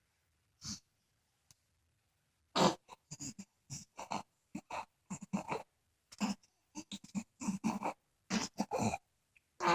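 Many short vocal noises in quick separate bursts, starting about two and a half seconds in.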